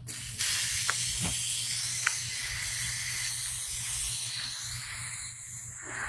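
Water spraying from a garden hose nozzle onto plants and soil: a steady hiss that starts about half a second in.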